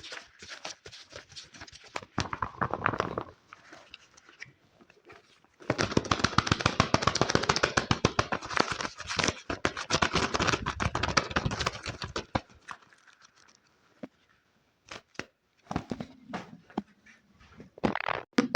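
Rapid close-miked ASMR tapping: a run of quick taps for about three seconds, a pause, then a longer run of fast, crisp taps for about six seconds, followed by a few scattered single taps near the end.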